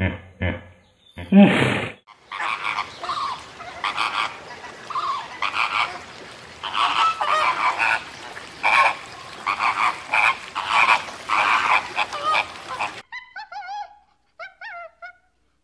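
A flock of flamingos honking and chattering, dense overlapping calls that stop abruptly about two seconds before the end. Before the flock comes in, deep grunts from hippos, the loudest a second and a half in; after it, a few thin warbling calls.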